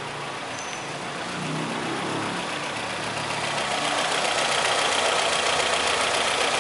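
Fiat Brava engine running at idle after its timing-belt tensioner has been readjusted, with no tensioner noise singled out; the sound grows louder about three seconds in.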